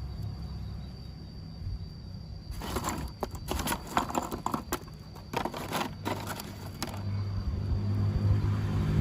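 A low mechanical hum fades out. From about two and a half seconds in, a few seconds of clicks and rattles follow, and then the low hum builds up again near the end.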